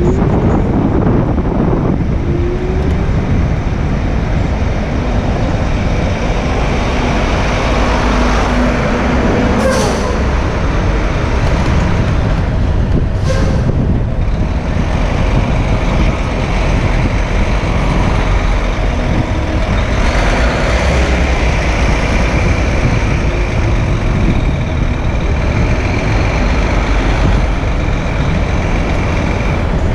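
City street traffic heard from a moving bicycle: a steady mix of engine and tyre noise with a heavy low rumble, and two brief hisses about ten and thirteen seconds in.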